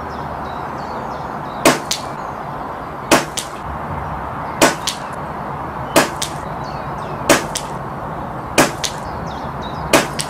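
A Brocock Concept PCP air rifle fired seven times at an even pace, about one shot every second and a half, each sharp report followed about a quarter-second later by a fainter knock. A steady wind hiss runs underneath.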